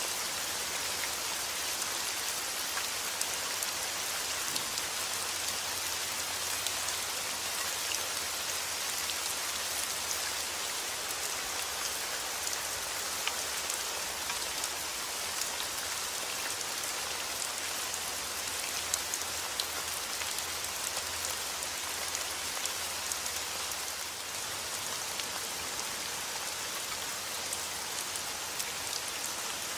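Steady heavy rain falling and pattering on surfaces, a continuous hiss dotted with many small drop ticks.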